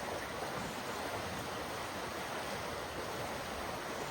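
A steady, even rushing noise with no clear pitch or individual events.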